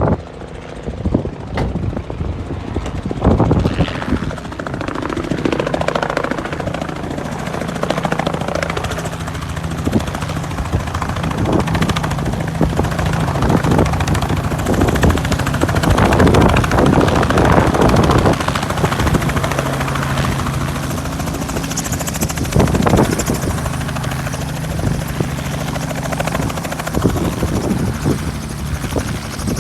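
Helicopter running: a steady low hum under a continuous rushing noise that swells and dips.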